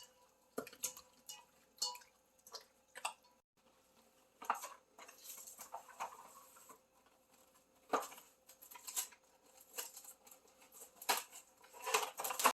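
Hands massaging jerk marinade into raw chicken pieces: irregular wet squishing and slapping, with louder flurries now and then.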